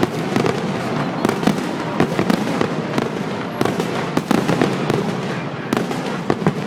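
Fireworks display: a dense, continuous run of crackling and banging shell bursts, with several louder bangs standing out and the overall level easing off slightly near the end.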